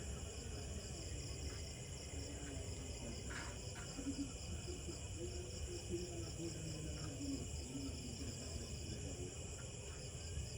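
Crickets chirring in a steady chorus: a continuous high-pitched, fast-pulsing trill over a low background rumble.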